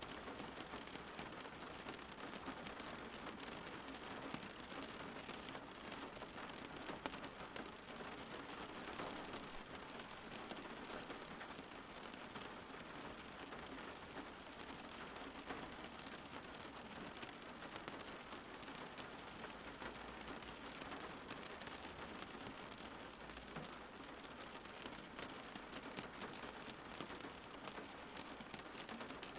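Steady rain falling and pattering on a surface, with fine drops ticking throughout.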